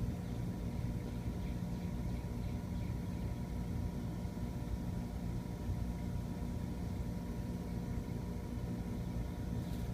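Trane 16 SEER gas pack package air conditioner running in cooling mode: a steady hum from its compressor and condenser fan, with several constant tones.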